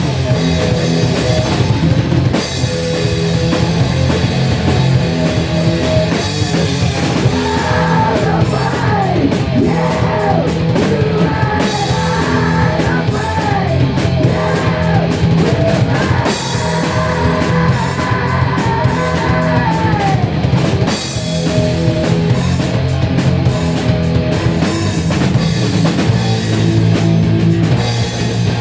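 Rock band playing, with drum kit and guitars. Through the middle a lead line bends up and down in pitch over the steady backing.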